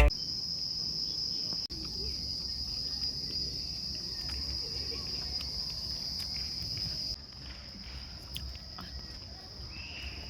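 Insects shrilling in a steady high-pitched drone over a low outdoor rumble; the drone drops in level about seven seconds in.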